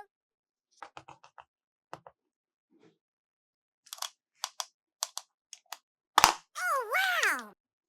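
Small clicks and taps of plastic toy pieces being handled, in scattered groups. About six seconds in comes a sharper click, followed by a wobbling tone that slides down in pitch for about a second, like a cartoon sound effect.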